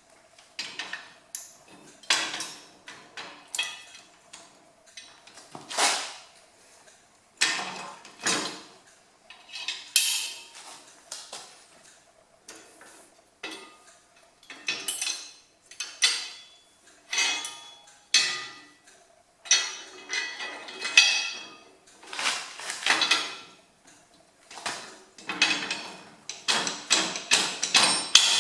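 Steel three-point hitch parts and pins being handled and fitted, clanking and clinking against each other in many irregular metal knocks with short ringing.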